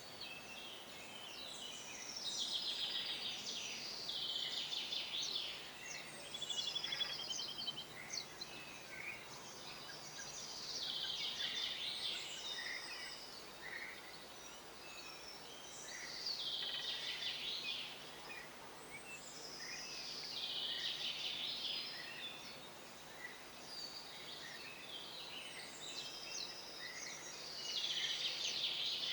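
Songbirds singing: short, high phrases with fast trills, repeating every four to five seconds.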